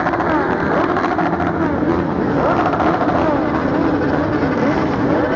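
Motorcycle engines running on the road, their pitch rising and falling as they accelerate and change gear.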